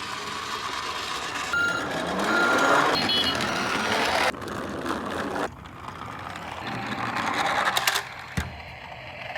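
Garbage truck sounds: a truck engine running with beeping like a reversing alarm, in cut-together pieces that stop abruptly about four and five and a half seconds in, with a few sharp clicks near the end.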